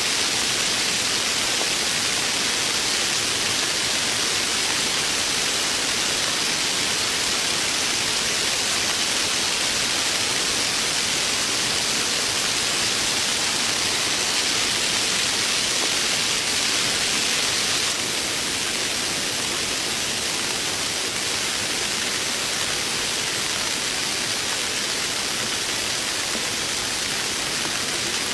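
Heavy rain falling steadily, an even hiss that drops slightly in level about two-thirds of the way through.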